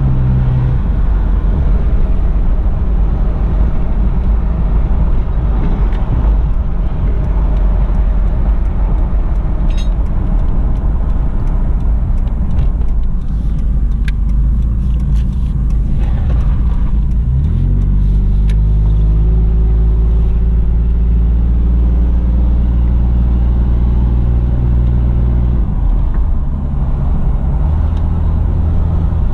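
A 2004 Nissan Xterra being driven, with engine and road noise on a test drive after new tie rods were fitted. About halfway through, the engine pitch rises and then holds a steady tone for several seconds before easing off near the end.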